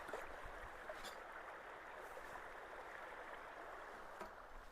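Ponded ditch water rushing and gurgling steadily down into a freshly unclogged culvert as it drains fast, heard faintly, with a few light clicks.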